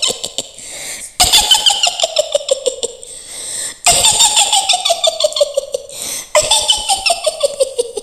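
A shrill, cackling witch's laugh in the style of Mak Lampir, made of rapid pulses that fall in pitch through each run. The laugh comes in about four runs with short breaks between them.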